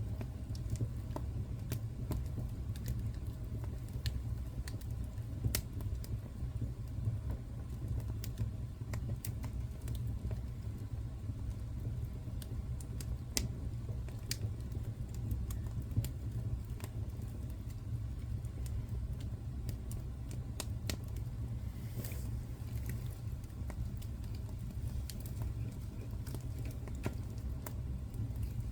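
Wood fire crackling and popping in a fireplace: irregular sharp pops scattered over a steady low rumble of burning.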